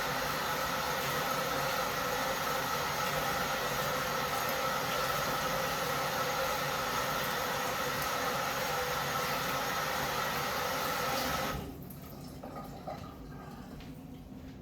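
Tap water running steadily into a sink, with a faint steady whine in it, shut off suddenly about eleven and a half seconds in.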